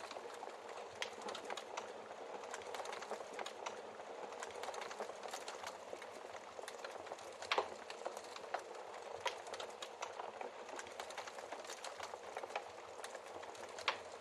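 Wood fire crackling in a fireplace: a steady hiss full of small crackles, with a few louder log pops, the loudest about halfway through and another near the end.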